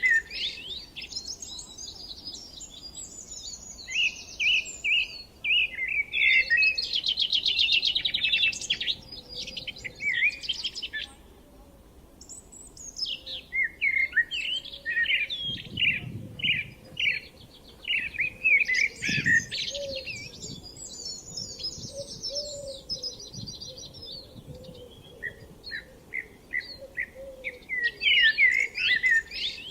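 Songbirds singing in spring: bursts of quick chirps and rapid trills in repeated phrases, with a brief lull about eleven seconds in.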